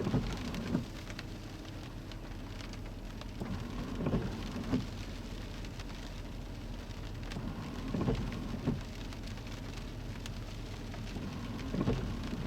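Rain falling on a car, with the windshield wipers sweeping about every four seconds, each pass a soft double knock.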